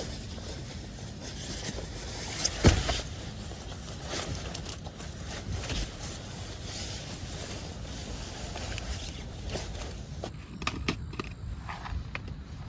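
Clinks, knocks and scrapes of gear being handled, the loudest knock about two and a half seconds in, over a steady low rumble.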